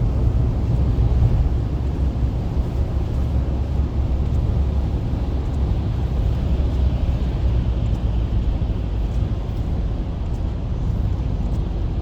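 Steady low rumble of engine and tyre noise inside a moving car's cabin at highway speed, with a higher hiss swelling briefly around the middle.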